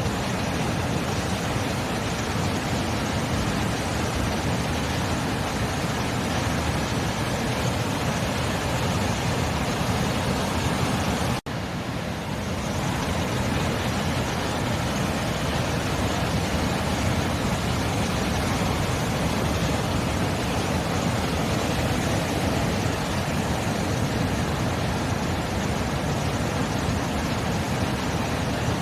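Sea surf: a steady, continuous wash of waves, broken by a momentary dropout about eleven seconds in.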